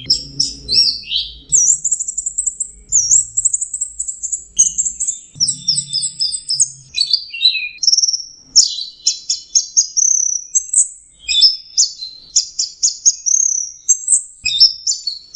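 Orange-headed thrush (anis merah) singing its continuous 'teler' song: an unbroken, rapidly changing string of high whistles, slurred notes and short trilled and chattering phrases.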